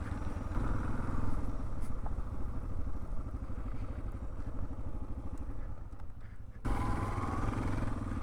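Dual-sport motorcycle engine running under way on an off-road track. About two-thirds of the way through, the engine note dips briefly, then comes back suddenly and louder.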